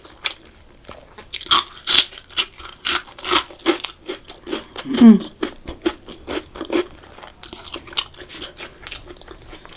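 Close-up crunchy chewing of fried onion rings, a quick irregular series of crisp crackles and bites. There is a brief falling vocal hum about halfway through.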